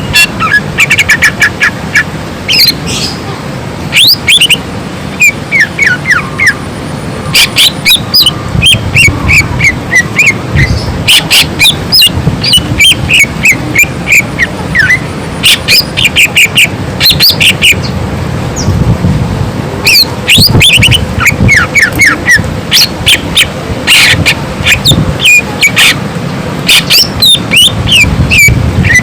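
Cucak ijo (green leafbird) singing a loud, continuous, varied song: fast runs of sharp chipping notes alternate with whistled phrases that slide up and down.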